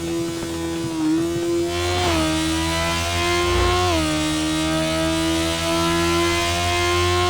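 Sport motorcycle engine at high revs under hard acceleration, its pitch climbing steadily and then dropping sharply with each upshift, about one, two and four seconds in.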